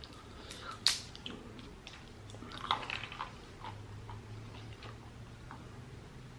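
Close-up chewing of food: soft wet mouth smacks and clicks at irregular intervals, with a faint steady low hum underneath.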